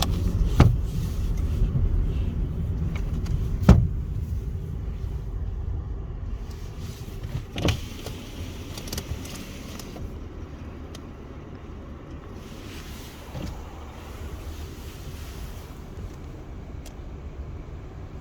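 Road traffic at a level crossing after the barriers have lifted: a car's engine rumble that fades away over several seconds, with a few sharp knocks, the loudest nearly four seconds in.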